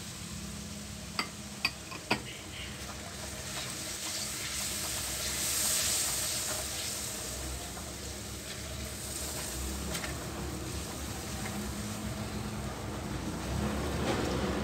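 Tomato masala sizzling in oil in an iron karahi while a silicone spatula stirs it, being fried down (bhuna) with a little water. Three sharp clicks, about half a second apart, come near the start, and the sizzle swells midway.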